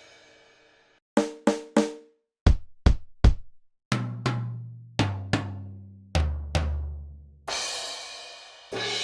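Sampled acoustic drum kit from Roland's DrumStudio Acoustic One software, played one drum at a time: three quick hits on one drum, three on another, then pairs of tom hits, each pair lower in pitch than the last. A cymbal crash rings out about seven and a half seconds in, and another near the end.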